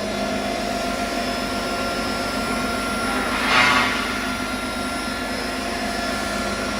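Multi-blade disc rip saw for panel materials, with a 15 kW motor, running steadily with no cut under way: a constant machine hum and whine. A brief, louder, higher-pitched sound rises over it about halfway through.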